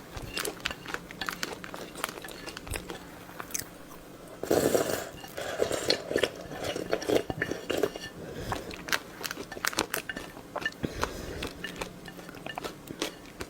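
Close-miked eating of seafood: crisp bites and chewing clicks, with a denser, louder stretch of crunching and chewing from about four and a half to eight seconds in.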